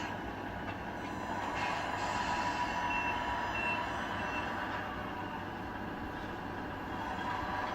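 A Tamiya radio-controlled truck's electronic sound unit playing a truck engine-running sound while the model drives, with three short reversing beeps about three seconds in.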